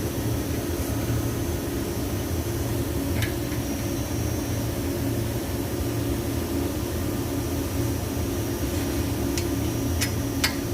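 A steady low mechanical hum with a faint high whine, broken by a few sharp light clicks: one about three seconds in and three near the end.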